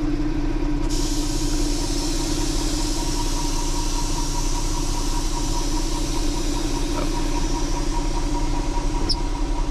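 Vehicle engine idling steadily, with a high hiss that switches on about a second in.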